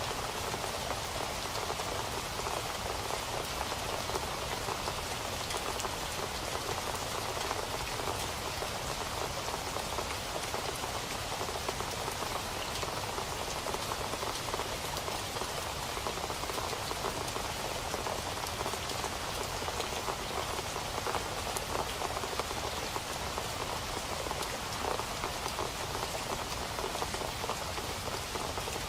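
Steady rain falling, a continuous hiss with many fine drop ticks and no let-up.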